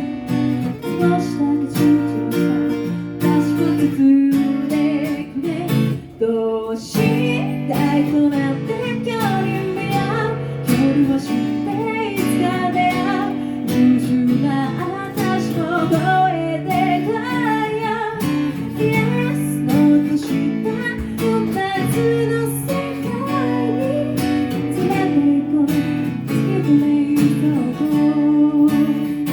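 Live acoustic pop performance: a strummed acoustic guitar accompanying a singer.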